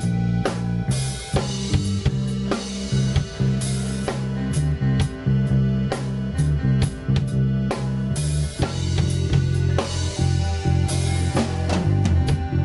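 Live instrumental rock band playing: drum kit with bass drum, snare hits and cymbal crashes over a bass line that moves in steps.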